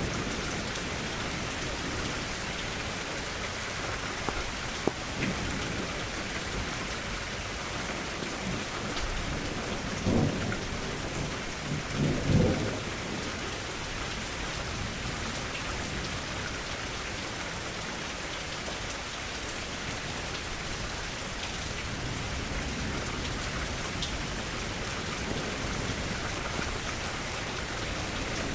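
Steady rain sound effect, heavy and even, with two short rumbles of thunder about ten and twelve seconds in, the second the louder.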